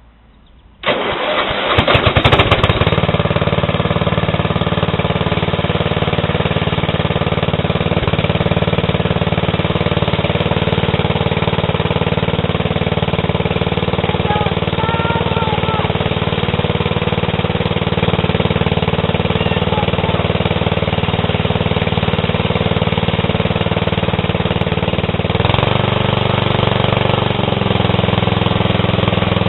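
Sears LT10 lawn tractor's Tecumseh TVM220 engine cranked on a jump-boosted battery and firing up on a cold start after months unused, catching within about a second and then running steadily. Its running note changes about 25 seconds in, then holds steady again.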